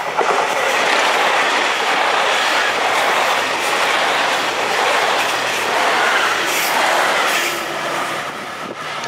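A JR Shikoku 2000 series diesel tilting train passing through the station at speed without stopping: a loud, steady rush of wheel and running noise that eases off about seven and a half seconds in as the train goes by.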